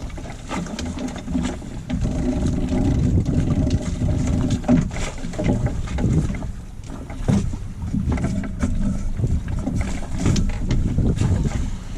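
Wind buffeting the microphone and water rushing past the hull of a sailboat underway, a dense low rumble that surges irregularly.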